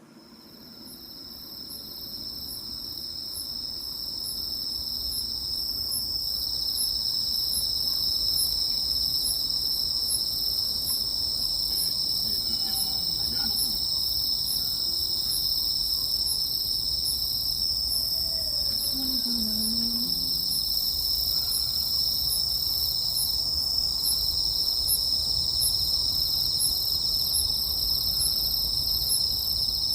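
Chorus of crickets and other insects: a steady high-pitched trill with a faster rhythmic chirping above it, about two chirps a second. It fades in over the first several seconds and then holds steady.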